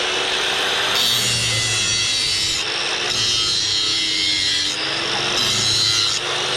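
A power grinder working the steel of a chainsaw bar, running continuously. The grinding sound changes every second or two as the blade is worked in passes.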